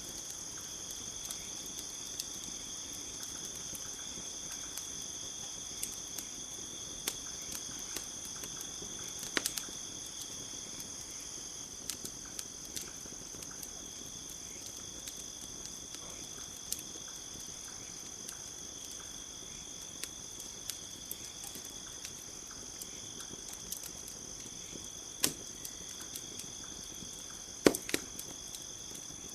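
Wood campfire crackling, with irregular sharp pops and snaps, the loudest a little before the end, over a steady high-pitched insect chorus.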